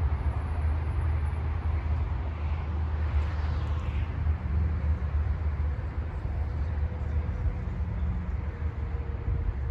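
Gusty wind buffeting the microphone: a steady low rumble with a faint hiss above it.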